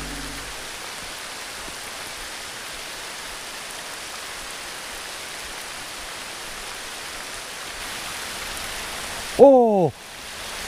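Heavy rain falling steadily on a river and the bank around it. Near the end, a man gives one loud shout with a falling pitch as a fish strikes his lure.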